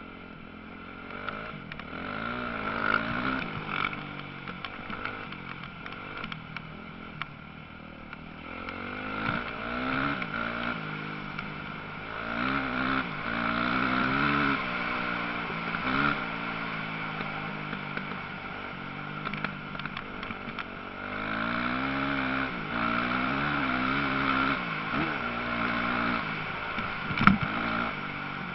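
Motocross bike engines revving up and down as riders pass on the track, the sound swelling and fading in waves. A sharp knock near the end.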